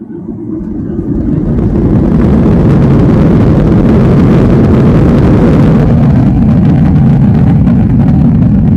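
Boeing 737-800's CFM56-7B jet engines spooling up to takeoff thrust, heard from inside the cabin: the engine noise rises over about two seconds, then holds loud and steady with a deep rumble.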